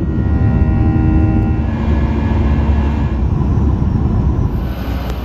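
Boeing 737 jet engines running loud: a steady deep rumble with thin steady tones over it.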